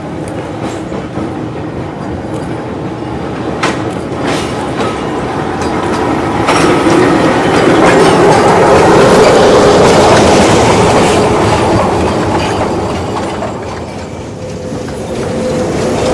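Narrow-gauge coal train of loaded steel wagons rolling past, wheels clattering over the rail joints with a few sharp clicks; it grows louder as the train nears, is loudest about halfway through, eases, then swells again near the end, where a steady whine comes in.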